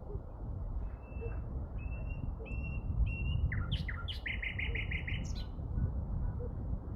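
A songbird singing: a few short whistled notes on one pitch, then about four seconds in a quick falling phrase and a rapid run of about seven notes. Under it runs a steady low rumble.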